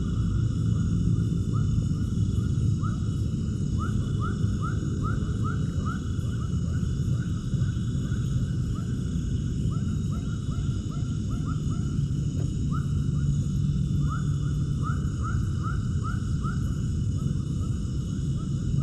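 Runs of short, rising animal calls, several a second, in bursts that come and go, over a steady low rumble and a steady high background hum.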